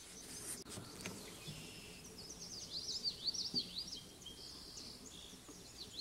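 A songbird singing a quick run of high, slurred chirps, repeated several times a second through the middle, over faint outdoor background.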